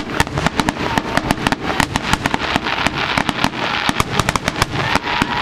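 Aerial fireworks shells bursting: a dense, rapid run of overlapping bangs and crackling pops, several a second.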